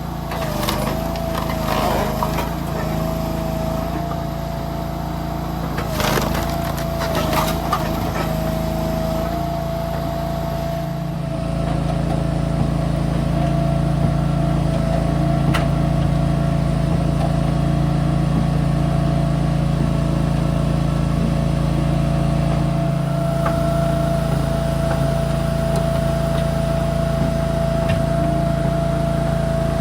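Engine of firewood-processing equipment running steadily. Its pitch dips briefly under load a few times in the first eight seconds, along with several sharp knocks. After about eleven seconds it runs evenly.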